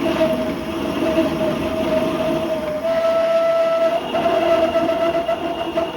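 A 7/8-inch drill bit cutting into metal in a lathe, chattering with a loud, steady, high squeal that starts right at the beginning and shifts pitch slightly a few times.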